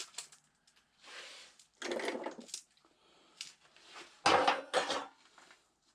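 Metal engine parts and tools clanking and scraping during an engine teardown, in several short bursts, the loudest a clatter about four seconds in.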